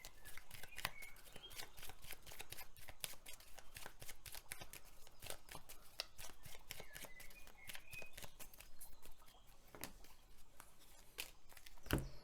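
A deck of tarot/oracle cards being shuffled by hand: a steady run of soft card clicks and flutters, with one louder thump near the end. Faint bird chirps sound in the background.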